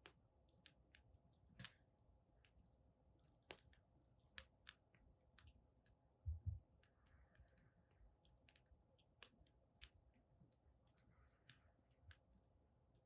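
Firewood burning in a fire stand, crackling faintly: scattered sharp pops and snaps at irregular intervals, a few brief soft hisses, and one low soft thump a little over six seconds in.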